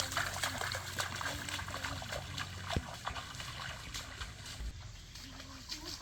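Water trickling with many small splashes and light clicks, with one sharper click about three seconds in.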